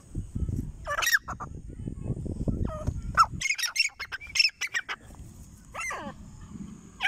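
Grey francolins calling: shrill, pitched calls, with a quick run of repeated short notes in the middle, over a low background rumble.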